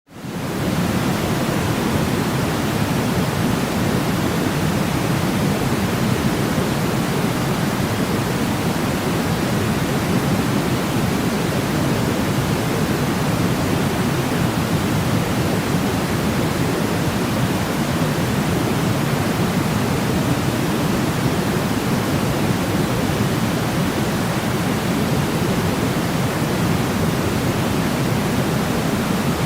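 Steady white noise for sleep: an even, unchanging hiss weighted toward the low end. It fades in during the first half second.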